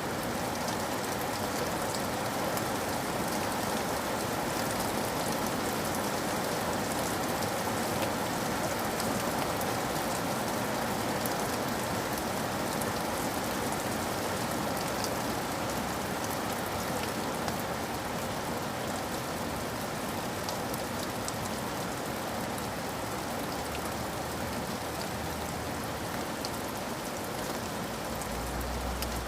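Steady rain falling, with many small drops ticking through an even hiss.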